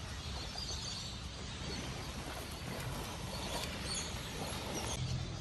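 Outdoor ambience: a steady rushing noise with a few faint, high bird chirps.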